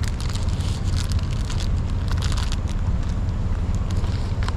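Crackling and rustling from someone eating a sandwich, over a steady low rumble.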